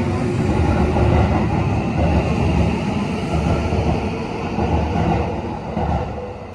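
Tokyo Metro 10000 series train running at speed, heard from on board: a loud, steady rumble of wheels on rail and running gear, easing off slightly near the end.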